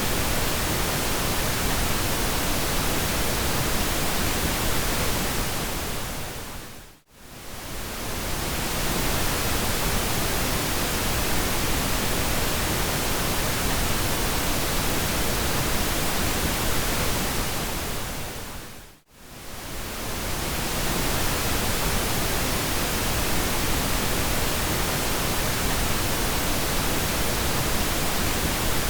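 Pink noise: a steady, even hiss across the whole range. It fades briefly to near silence and swells back twice, about a quarter and two-thirds of the way through.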